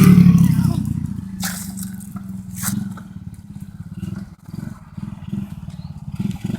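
125 cc Coolster dirt bike's single-cylinder engine dropping back after a hard rev and running low and uneven, fading over the first few seconds. A few sharp clicks come through, one about one and a half seconds in and another a second later.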